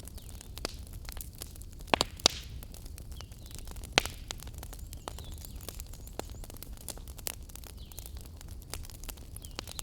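Wood fire crackling, with sharp pops scattered irregularly, the loudest a pair about two seconds in and another at four seconds, over a low steady rumble of the flames.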